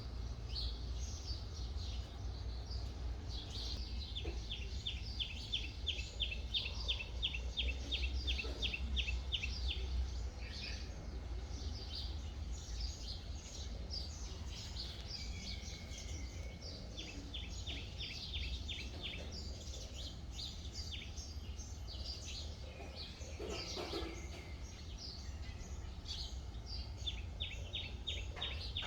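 Several songbirds chirping and singing at once. One repeats a fast series of short, identical notes, about three a second, in runs of several seconds, heard three times. A steady low rumble sits underneath.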